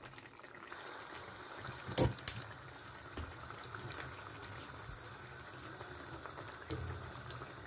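Minced meat frying and bubbling in oil in a clay pot on a gas flame, a steady quiet bubbling sizzle. About two seconds in come two sharp knocks in quick succession.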